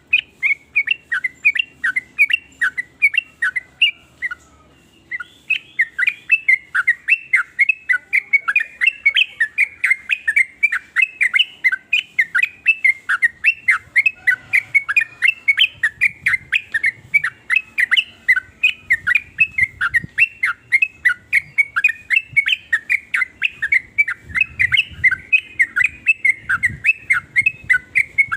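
Yellow-vented bulbul (trucukan) calling in a fast, steady string of short chirps, about three or four a second, with a brief pause about four seconds in.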